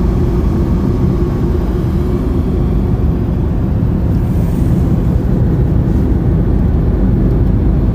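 Steady road and engine noise of a moving car, heard from inside the cabin: a loud, even low rumble with no breaks.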